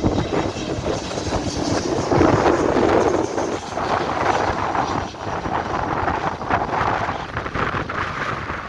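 Strong gusty wind buffeting the microphone, a loud uneven rushing that rises and falls from moment to moment.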